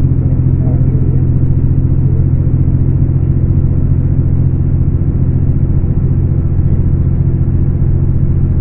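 Scania K410 coach's 13-litre inline-six diesel running steadily at an even pitch, with a deep, constant hum.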